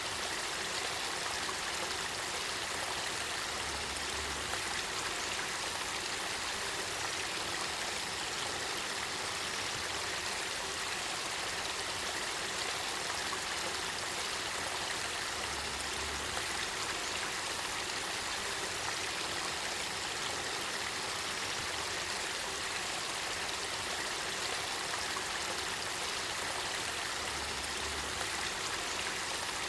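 Spring water flowing in a river: a steady, even rush of water that does not change.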